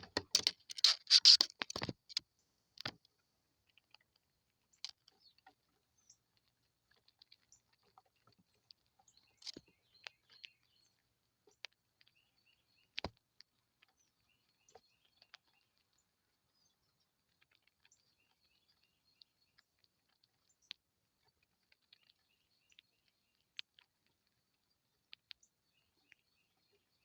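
A brief burst of rustling and tapping in the first two seconds, then scattered faint clicks and taps with occasional faint high bird chirps.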